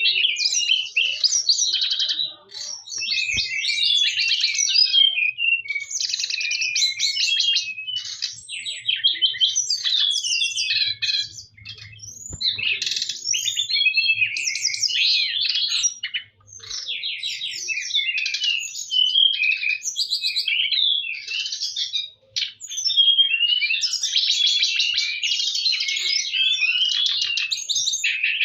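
Brown-chested jungle flycatcher singing a rapid, varied chattering song in long bursts with short breaks.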